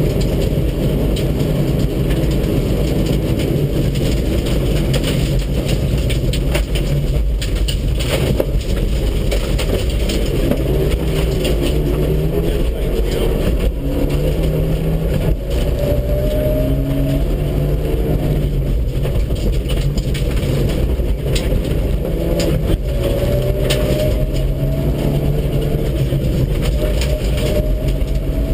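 Mitsubishi Lancer Evolution VII rally car's turbocharged four-cylinder engine under hard driving on a special stage, its revs climbing and dropping with the gear changes, with road noise and scattered knocks from the stage surface.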